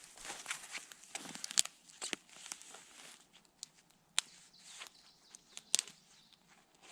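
Irregular rustling and crackling of dry twigs and leaves, with a few sharp snaps.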